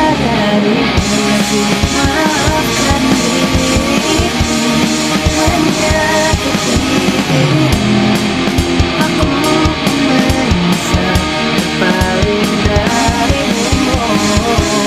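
Pop-punk instrumental break with no lead vocal: electric guitars over a drum kit beat.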